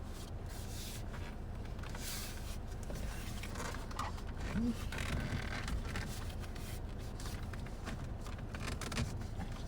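Rustling and scraping as a stretchy steering wheel cover is worked onto the wheel by hand, with small knocks, over a steady low hum.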